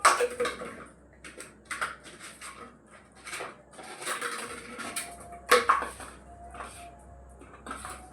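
A plastic bottle clattering and knocking on a hard floor as a small dog bats it around, in a string of irregular knocks with two louder hits, one at the start and one about five and a half seconds in.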